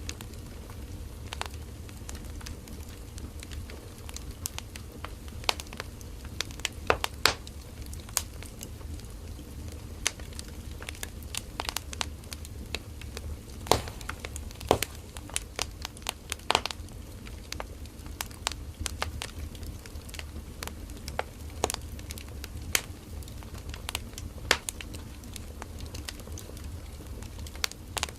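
Firewood burning in an open campfire: irregular sharp crackles and pops, some loud and some faint, over a steady low rumble of the flames.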